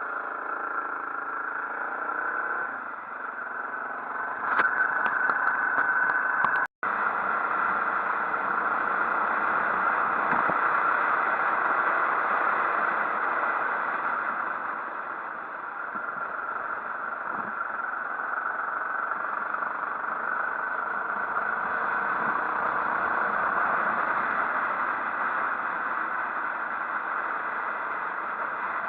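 Motorcycle engine running under way, mixed with steady rushing wind noise, with a momentary dropout about seven seconds in.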